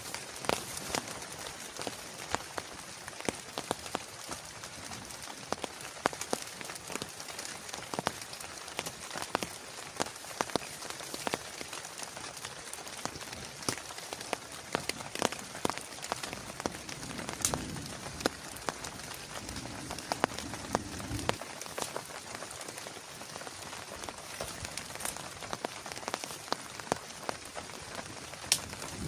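Steady rain with many sharp, separate drop taps on a nearby surface. A low rumble swells for a few seconds about two-thirds of the way through and cuts off suddenly.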